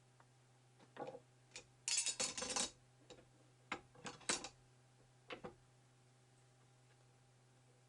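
Scattered clicks and knocks of small hard objects being handled, with a denser clatter lasting under a second about two seconds in.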